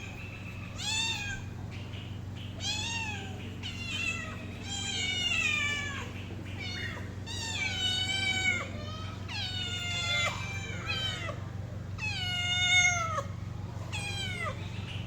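Domestic cat meowing over and over, about nine drawn-out meows, each rising then falling in pitch, with a steady low hum underneath.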